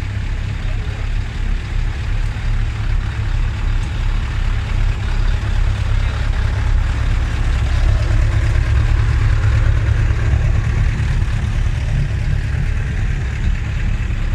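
Heavy truck diesel engine idling nearby, a steady low rumble that grows a little louder in the middle.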